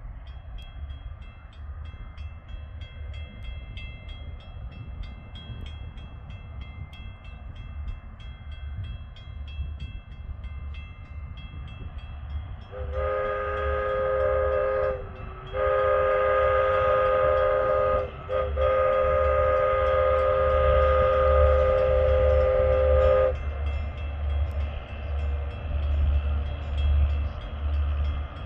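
A rail vehicle's multi-tone horn sounds three blasts, two shorter ones and then a long one, about halfway through. A low engine rumble runs underneath, with faint steady high tones before the horn.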